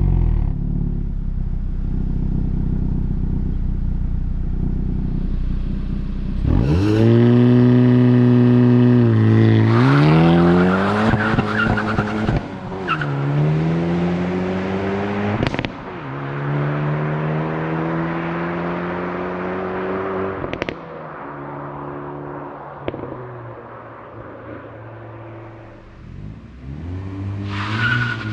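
Hyundai i30 N Fastback's 2.0-litre turbo four-cylinder engine driven hard: a steady low drone at first, then revs climbing and dropping several times through manual gear changes, with a few sharp cracks between pulls.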